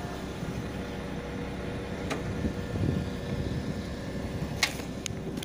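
Steady hum and low rumble of a train standing at the platform, with a few faint knocks and one sharp click about four and a half seconds in.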